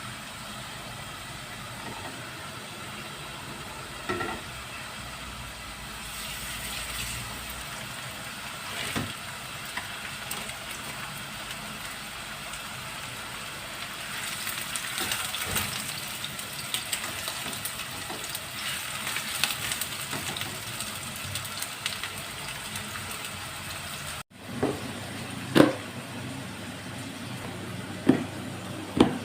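Food sizzling and crackling in a frying pan, with the crackle densest about halfway through. After a sudden break near the end come a few sharp knocks, like utensils striking cookware.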